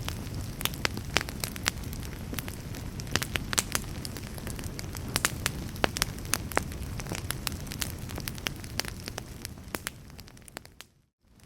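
Wood fire crackling: burning logs give many sharp, irregular pops and snaps over a low steady rumble. Near the end the whole sound fades down almost to silence.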